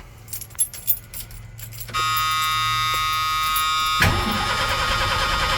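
Keys jingle and click at the ignition. About two seconds in, a steady warning buzzer comes on. About four seconds in, the starter begins cranking the 1986 Ford F250's 300 cubic-inch (4.9 L) inline six, which does not catch: its choke is not wired up and is not closing.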